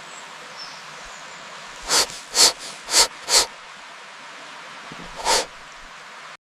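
An animal snorting: four short, breathy snorts about half a second apart, then one more near the end, over a steady hiss.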